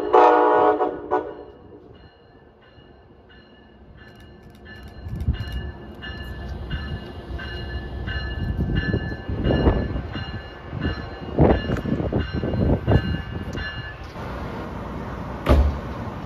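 Train horn sounding a loud chord that cuts off about a second in, then a train running into the station, its rumble building with repeated heavy thumps and a faint steady whine.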